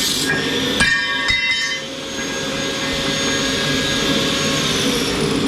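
Steady roar of a forced-air blaster heater running. About a second in, two metallic clanks come half a second apart, and the struck steel rings on for a few seconds.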